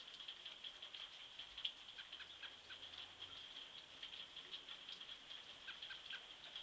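Faint sleet pattering and ticking in a dense, steady run of tiny hits, with a few short faint chirps about two seconds in and again near the end.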